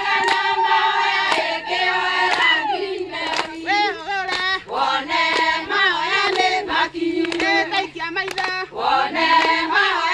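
A group of voices singing together, with hand claps through the song.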